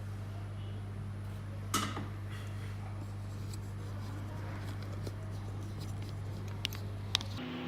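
A steady low hum with a few light clicks, one a little under two seconds in and two close together near the end. The hum stops abruptly just before the end and gives way to a higher steady tone.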